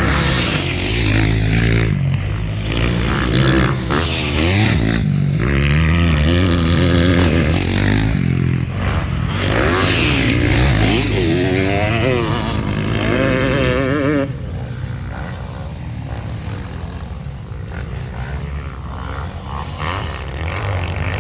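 Several motocross bikes racing past with their engines overlapping, each rising and falling in pitch as the riders rev, shift and back off. About two-thirds of the way through the loud engines drop away, leaving fainter, more distant bike engines.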